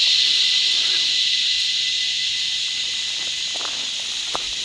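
Chorus of cicadas: a dense, steady, high-pitched buzz that doesn't let up.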